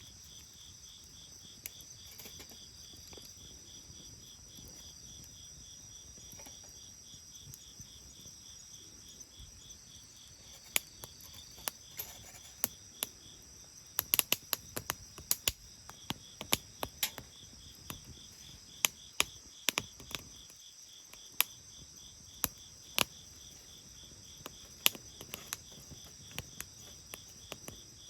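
Bonfire crackling: from about ten seconds in, a run of sharp pops and snaps from burning wood, over steady, pulsing chirping of insects.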